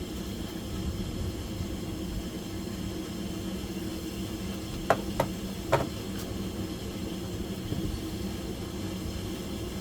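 A steady low hum with three sharp knocks close together about five seconds in.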